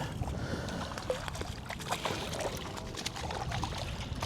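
Water splashing and trickling beside a kayak as a hooked smallmouth bass is brought in, with scattered small knocks and clicks.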